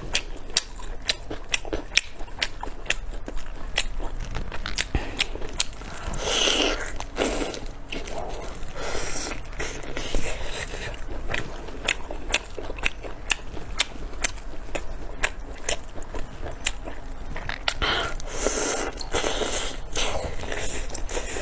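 A person chewing and biting soft, chewy food close to the microphone, with a steady run of wet mouth clicks and smacks. There are louder, noisier bites about six seconds in and again near the end.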